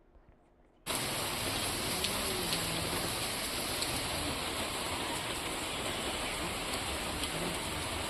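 Heavy rain falling, a steady dense hiss of downpour that cuts in abruptly about a second in.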